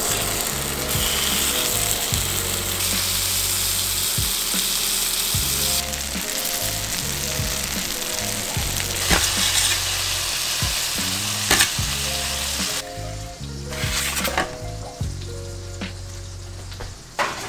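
Chicken wings sizzling as they sear in a hot carbon steel skillet, with a few sharp clicks; the sizzle drops away about three-quarters of the way through.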